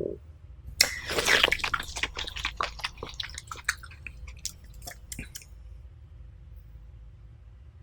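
Close-up wet eating sounds: a loud squishy bite about a second in, then chewing with crunching and squelching clicks that stops about five seconds in.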